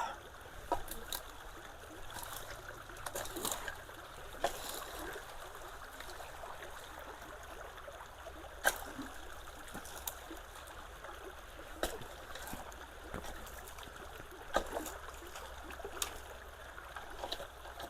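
Shallow creek water trickling and flowing steadily, with scattered light knocks and splashes every second or two.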